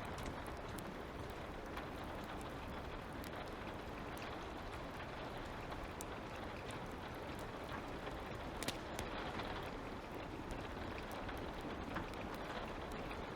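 Light rain falling steadily, with the small scattered crackles and pops of a wood fire; one sharper pop about two-thirds of the way through.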